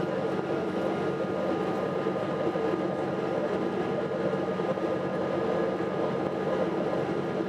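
Boeing 777-200 jet engines running steadily: an even roar with a few faint steady tones, holding the same level throughout.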